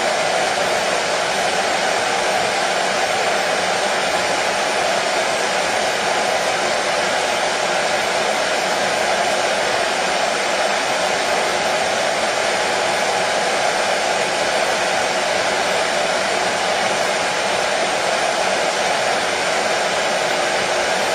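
Hair dryer running continuously: a steady, even blowing whoosh with a faint motor hum, unchanging in level, played as white noise to soothe a colicky baby.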